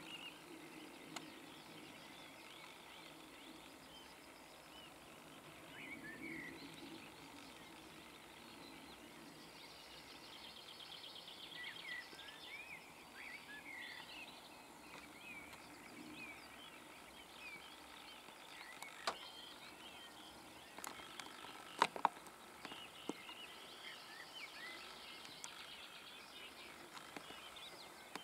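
Faint birdsong from several small songbirds: scattered chirps and a short trill. A few sharp knocks come about two thirds of the way through, the loudest near the end of that cluster.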